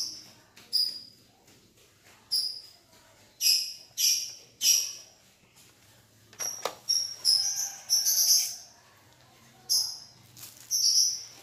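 Short high-pitched chirps, a dozen or so at irregular intervals, like a small bird calling. One sharp click comes about two-thirds of the way through.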